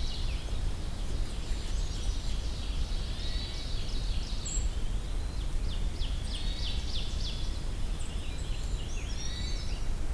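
Mixed songbird calls in woodland: many high, thin notes and quick down-slurred notes from golden-crowned kinglets, with a distant red-eyed vireo giving a nasal alarm call. A steady low rumble of background noise runs underneath.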